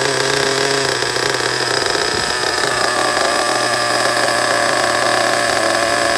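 O.S. Max 30VG nitro engine running at idle, its note breaking up briefly about two seconds in and then settling again. The idle screw has just been turned in half a turn, and the engine is being tested for cutting out when the brakes are touched.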